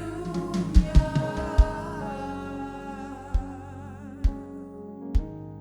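Live worship music: a sung vocal line that fades out after about two seconds over steady held chords, with a few low thumps scattered through.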